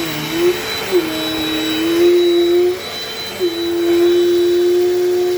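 Dirt Devil Dynamite Plus vacuum cleaner running, a steady high whine over its motor note, which dips and settles lower twice, about a second in and again a little past three seconds.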